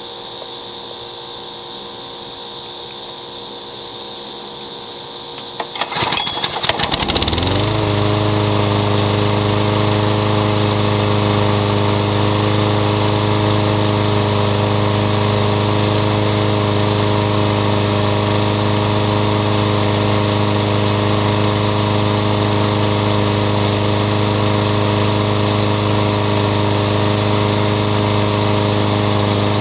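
Husky push mower's Briggs & Stratton Quantum single-cylinder engine pull-started about six seconds in, catching almost at once and settling into a steady run on fresh 30-weight oil.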